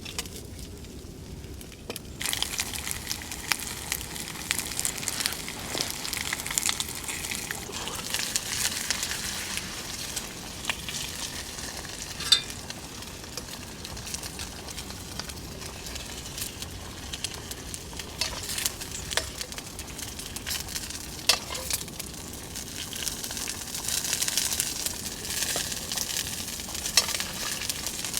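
Food sizzling and frying in a pan, starting about two seconds in, with a dense crackle and occasional sharp pops.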